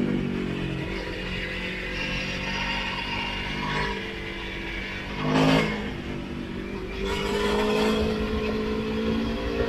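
Motorcycle engine running on the road over a low wind rumble. Its pitch falls off at first, a brief louder rev burst comes about five and a half seconds in, and then the pitch climbs steadily as it accelerates.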